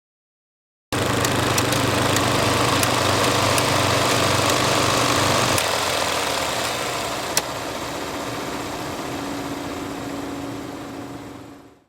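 Film projector running: a steady mechanical whir with a low hum and scattered clicks. About halfway through, the low hum drops out and the sound gets quieter, with one sharp click, then it fades away near the end.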